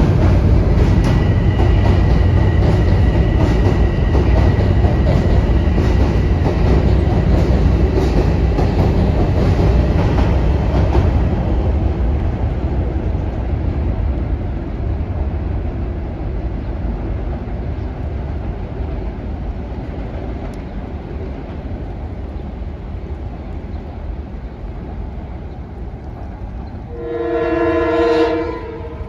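Metro-North train passing, a rumble with rapid wheel clicks over the rail joints that fades away over the first half. Near the end a train horn sounds once, for about a second and a half.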